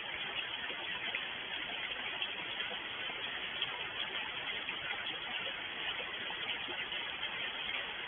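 Steady rainfall: an even hiss with scattered small drop ticks.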